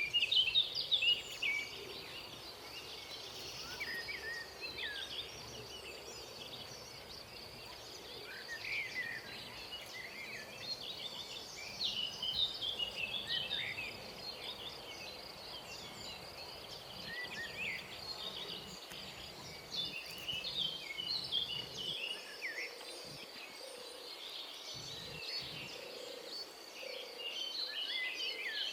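Wild birds calling with many short chirps and warbles, over a steady high-pitched insect drone.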